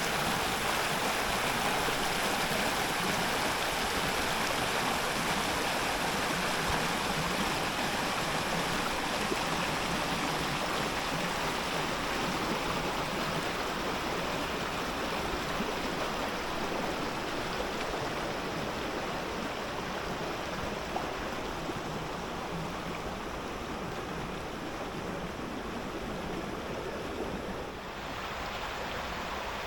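Steady rushing of a flowing stream, growing slightly quieter and dropping a little near the end.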